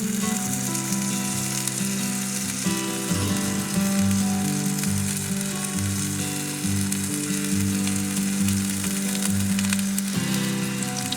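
Steady sizzling and crackling of bacon cooking over a campfire, under background music of held chords that change a few times.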